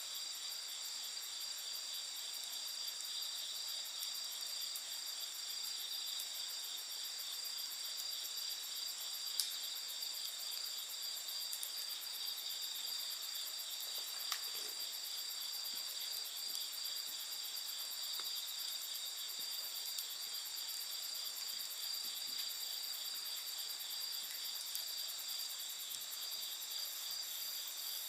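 Night insects trilling steadily in several high-pitched bands, over a campfire that gives occasional sharp crackles, the two loudest about nine and fourteen seconds in.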